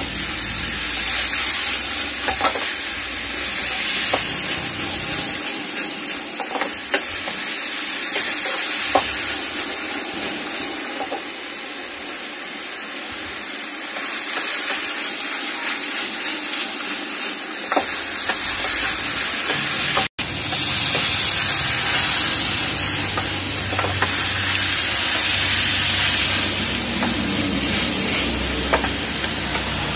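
Beef pieces sizzling as they stir-fry in a pan over a gas flame, with a metal spatula scraping and clicking against the pan as it is stirred. The sound cuts out for an instant about two-thirds through.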